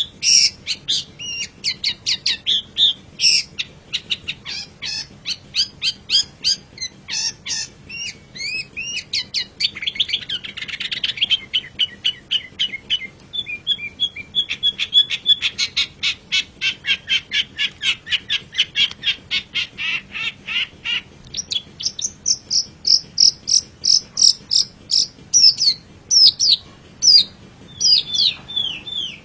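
Long-tailed shrike (cendet) singing a long, rapid run of chirps and whistles. Partway through it breaks into a harsh rasping passage and a fast trill. It ends with a series of clear, separate whistled notes.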